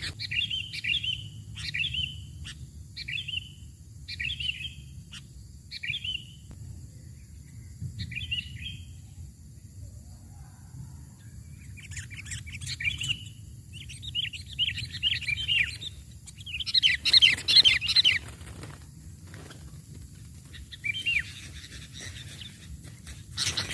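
Sooty-headed bulbuls (kutilang) calling: short chirps about once a second at first, then longer bursts of chattering that are loudest a little past the middle. A steady low background noise runs underneath.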